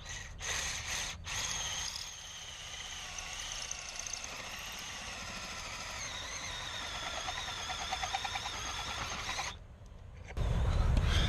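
Drill cutting into a metal door, a high wavering squeal that stops near the end.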